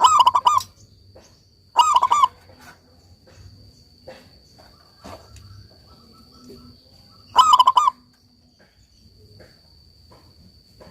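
Zebra dove cooing: three short phrases of rapid, rolling notes, the second about two seconds after the first and the third after a longer pause, over a steady high insect trill.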